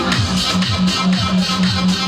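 Loud Arabic wedding-band music: electronic keyboard over a steady, evenly repeating drum beat, with no singing.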